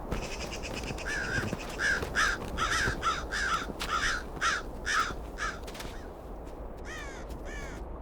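A corvid calling: a quick series of about nine harsh caws, then two more after a short pause near the end, over a steady low background noise.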